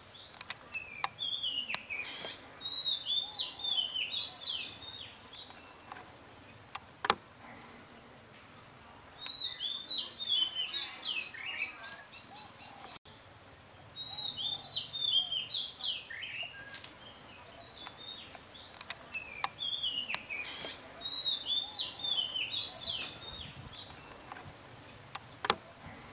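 A songbird singing in four bouts of quick, high chirping phrases with quieter pauses between them. A few sharp clicks come through, the loudest near the end.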